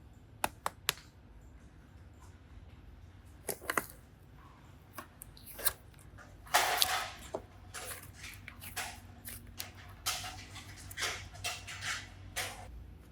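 Hands working slime and modelling clay: scattered sharp clicks and taps, with short rustling and squishing handling noises, the longest and loudest about six and a half seconds in.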